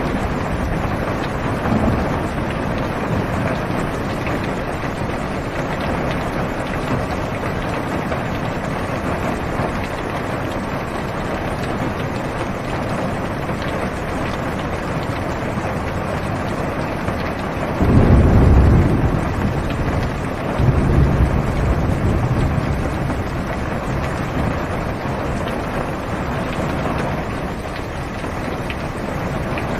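Heavy rain falling steadily on a car's roof and windows, heard from inside the car. About two-thirds of the way through, thunder rumbles low, twice in quick succession.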